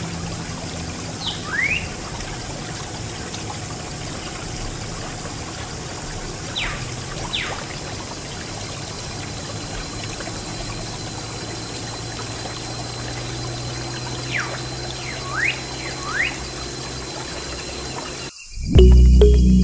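Water pouring and trickling steadily from a miniature DIY water pump's outlet, with a few short rising and falling chirps over it. Music starts near the end.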